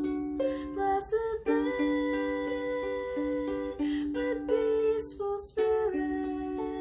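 Solo ukulele playing the hymn melody without singing: plucked notes ring on over picked chords, with a few brushed strums about a second in and again around four and five seconds in.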